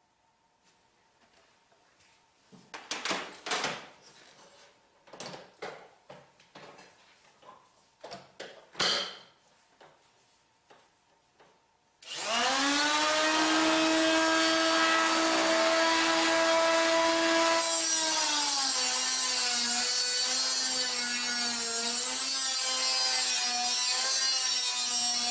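Scattered knocks and scrapes of metal parts being handled. About twelve seconds in, a power cutting tool spins up to a loud steady whine, then drops a little in pitch and wavers as it bites into the steel of the old battery mount to cut it off.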